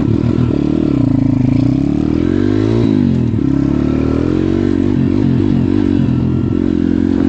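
140cc pit bike's single-cylinder four-stroke engine under way, its revs rising and falling with the throttle; the revs drop sharply about three seconds in and then climb again.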